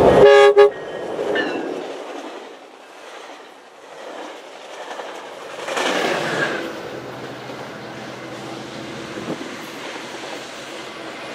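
A train horn blast cuts off in the first second, then the train runs past with wheels clacking over the rail joints, swelling about six seconds in before settling to a steady rumble.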